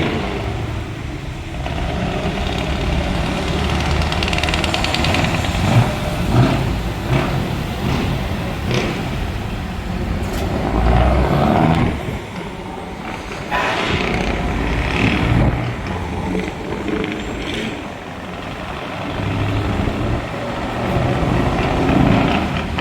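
Truck V8 engine with open exhaust pipes running, its level rising and falling.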